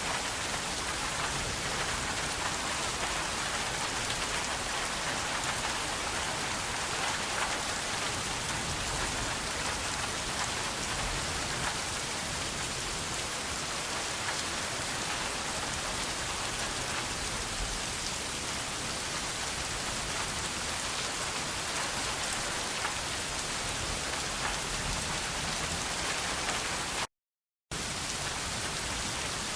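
Steady rain falling on a surface, an even hiss with many fine drop taps. Near the end the sound cuts out completely for about half a second, then resumes.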